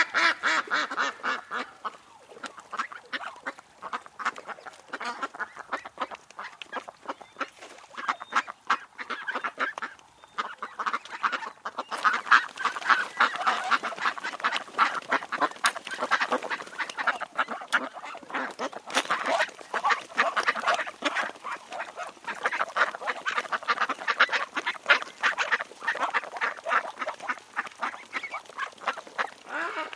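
A flock of birds calling: many short, overlapping calls in a dense, unbroken chatter, louder from about halfway through.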